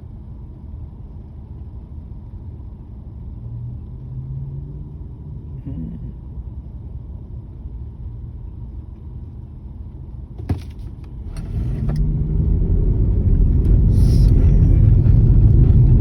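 Car engine and low rumble heard from inside the cabin: a quiet idle while stopped, a single click about ten seconds in, then the engine revs up and the rumble grows louder as the car pulls away.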